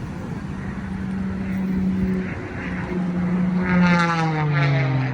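Propeller aircraft flying past, its engine drone swelling to loudest about four seconds in, then dropping in pitch as it passes.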